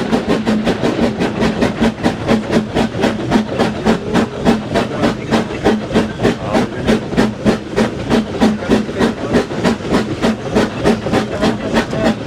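Schynige Platte Bahn's SLM Class H2/3 0-4-2T steam rack locomotive chuffing at work, its exhaust beating in a steady, even rhythm of about four beats a second.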